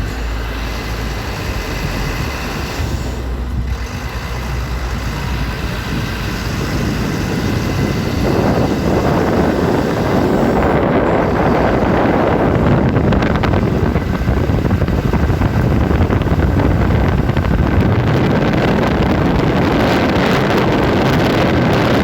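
Wind buffeting the microphone over a steady low engine rumble, growing louder about eight seconds in.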